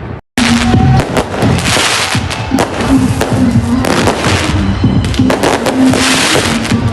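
Dense, continuous barrage of firecrackers and fireworks, with a rapid crackle of many sharp pops over a hiss, after a split-second gap near the start. Low steady music notes sound underneath.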